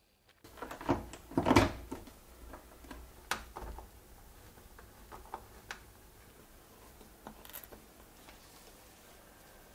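Hands fitting a BMW E46 trunk-lid trim strip and its wiring to the trunk lid: knocks and clicks of handled parts, a cluster of louder knocks about a second in, then scattered light clicks.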